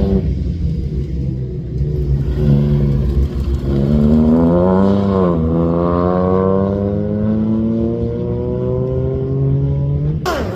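Rally car engine accelerating hard, the revs climbing, with a gear change about five seconds in, then pulling up steadily again until the pitch drops sharply near the end.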